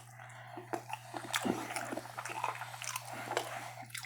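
Close-up mouth sounds of a person chewing food, with irregular small wet clicks and crunches, picked up through a steady electrical hum.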